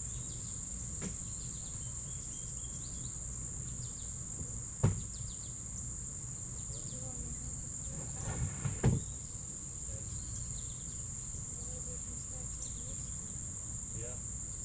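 A steady, unbroken high-pitched insect chorus, with a dull thump about five seconds in and another cluster of knocks near nine seconds. Faint short chirps come and go above it.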